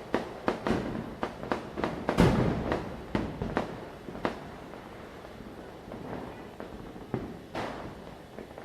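Firecrackers bursting at night during Diwali: a quick run of sharp bangs, the loudest about two seconds in, then thinning to scattered pops over a background of distant crackling.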